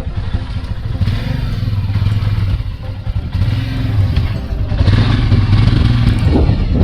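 Motorcycle engine running under load in a low, rough rumble, with a brief rise in pitch near the end.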